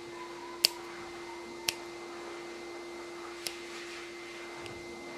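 Dog nail clippers snipping through a dog's toenails: three sharp snips spaced a second or two apart, with a fainter one near the end.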